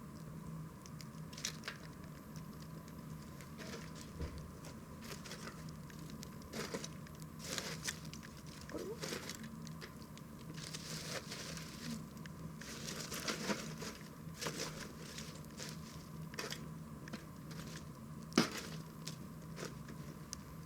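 Wood campfire crackling with irregular pops and short hissing flare-ups around the middle; a single sharp snap about eighteen seconds in is the loudest.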